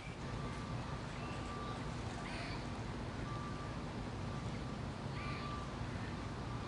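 Two short bird calls, about three seconds apart, over a steady low outdoor rumble.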